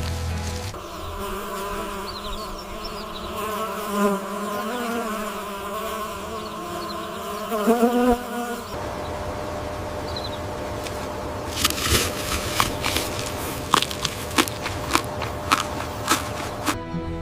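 A flying insect buzzing close by, its pitch wavering up and down, for about eight seconds. Then a fainter steady hum with a series of sharp clicks.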